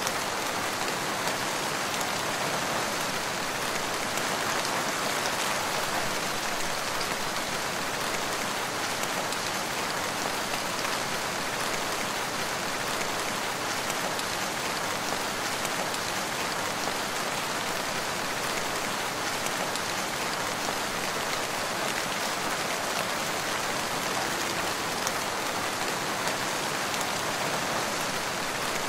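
Steady rain falling: a dense, even hiss of many drops that holds constant throughout, with the odd single drop ticking out above it.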